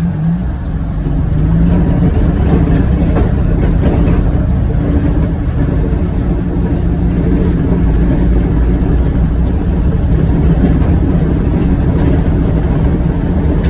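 John Deere Gator XUV835M utility vehicle's engine and drivetrain, heard from inside its enclosed cab, building up over the first couple of seconds and then running steadily under load as it pushes snow with its front plow blade.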